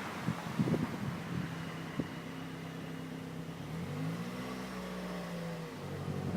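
Street traffic: a passing car's engine hums steadily, its pitch rising a little about four seconds in and dropping back near the end, with a few light knocks early on.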